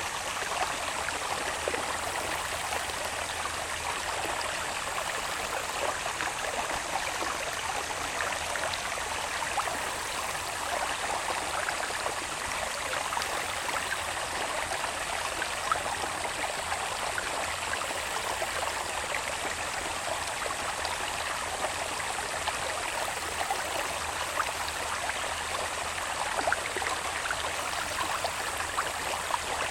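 Steady babbling of a small irrigation channel flowing down from the hills, with faint splashes and trickles. A continuous high-pitched insect drone runs underneath.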